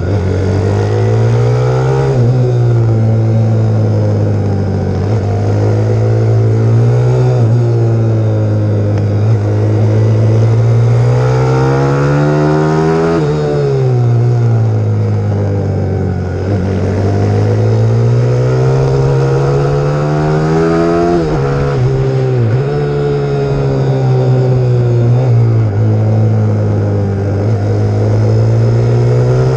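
Pit bike's single-cylinder four-stroke YX150 engine running hard under riding load. The revs climb slowly and drop away sharply a few times, around 13, 21 and 22 seconds in.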